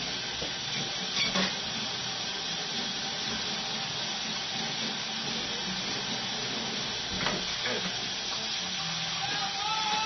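Food sizzling steadily in a hot frying pan, with a couple of brief clicks of a utensil against the pan.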